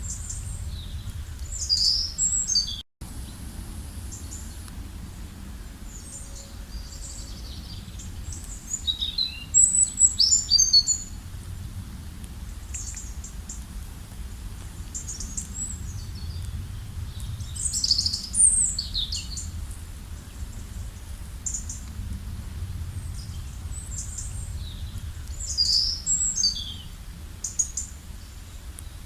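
Songbirds singing: clusters of quick, high, warbling phrases every several seconds over a steady low background rumble. There is a momentary cut in the sound about three seconds in.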